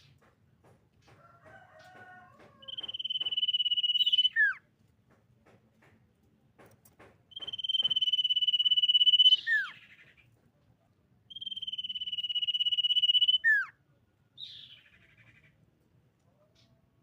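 Common iora singing: three long, steady, high whistles, each about two seconds and ending in a sharp downward drop, with a short raspy note after the third. Faint chirps come before the first whistle.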